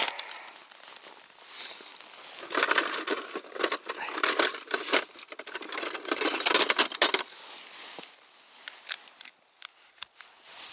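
Crackling, crinkling handling noise, dense for about five seconds from a couple of seconds in, then thinning to scattered clicks.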